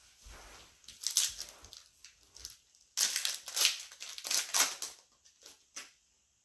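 Plastic wrapper of a trading-card pack crinkling as it is torn open and pulled off, in two bursts, the louder about three to five seconds in, followed by a few soft clicks of cards being handled.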